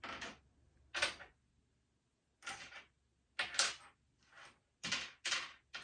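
Plastic packaging of sewing machine accessories being handled: a string of about eight short crinkling noises, several coming close together in the second half.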